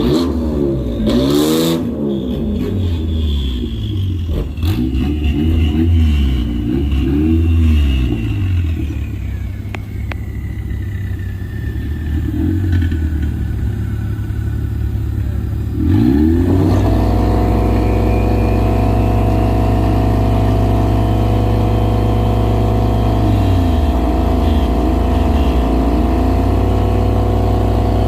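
A car engine is revved up and down repeatedly. About halfway through it is held at a steady, constant high speed, loud and unbroken.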